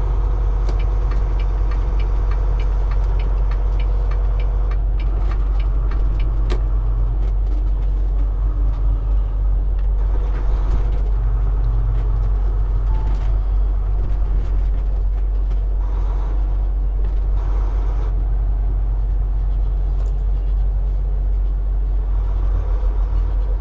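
Steady low rumble of a semi-truck's diesel engine and road noise inside the cab while driving, with a run of evenly spaced light ticks during the first several seconds.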